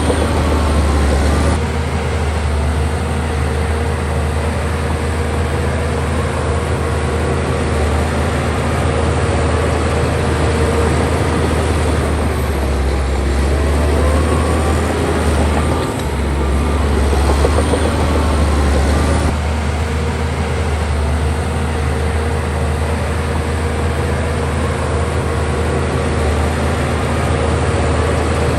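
Heavy diesel engine of earthmoving machinery running steadily under load, a deep drone that shifts in pitch and level a few times as the load changes.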